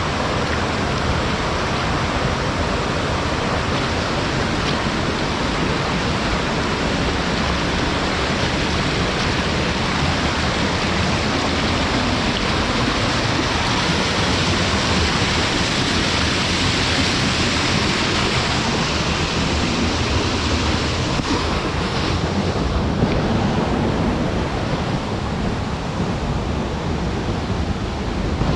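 Steady rush of running water, an even, unbroken noise.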